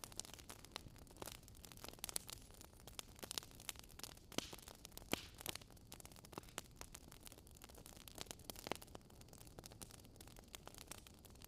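Wood fire crackling: irregular sharp pops and snaps of varying strength, a few a second, over a soft steady hiss.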